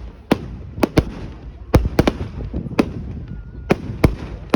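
Fireworks going off: about nine sharp bangs at irregular intervals, some close together in pairs, over a steady background rumble.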